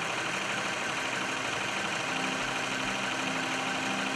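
John Deere 4440 tractor's six-cylinder diesel engine running steadily at idle.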